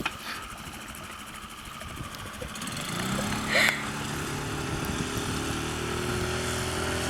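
Suzuki DF5 single-cylinder four-stroke outboard motor running. About three seconds in, its note comes up and grows louder as the revs rise, then holds steady. A short sharp noise sounds just after the revs come up.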